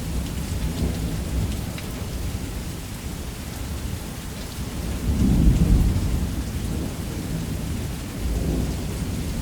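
Thunderstorm: steady heavy rain with low rolling thunder, swelling loudest about five seconds in and rising again near the end.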